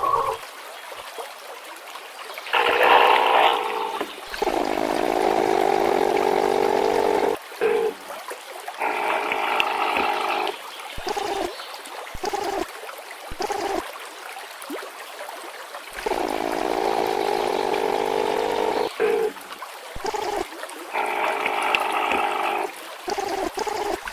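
Gurgling, water-like sound in bursts of one to three seconds that cut in and out abruptly. The same run of bursts repeats about halfway through.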